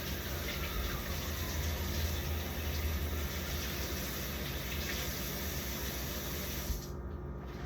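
Water running steadily from a kitchen tap, shut off abruptly near the end.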